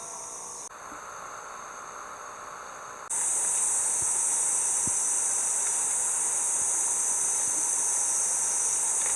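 A steady, high-pitched chorus of summer insects shrilling without pause. It steps up abruptly louder about three seconds in, where the footage is cut.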